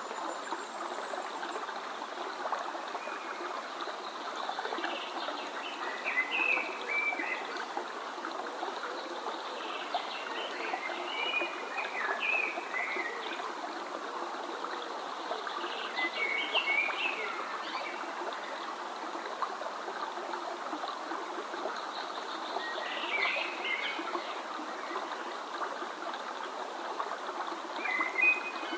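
Stream water flowing steadily, with small birds chirping in short clusters of quick high notes every few seconds.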